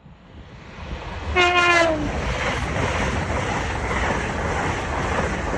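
High-speed train sounding one short horn blast, about half a second long, that sags slightly in pitch as it ends. The train then rushes past with a loud, steady rolling roar of wheels on rail.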